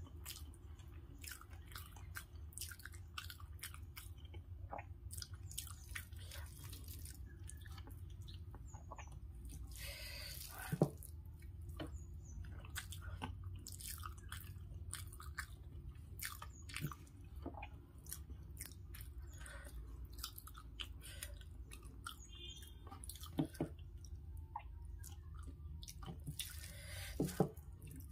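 Close-up mouth sounds of a person chewing rice mixed with lentil dal, eaten by hand: soft wet smacks and clicks over a steady low hum, with three louder short sounds, the loudest about a third of the way in.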